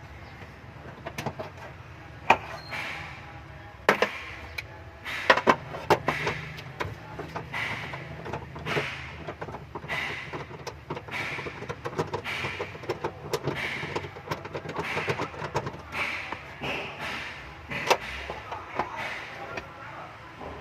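Hand tools clicking, knocking and clanking on metal at a Toyota Prius hybrid battery pack: a run of irregular sharp clicks and short metallic rings, the loudest knocks about four to six seconds in.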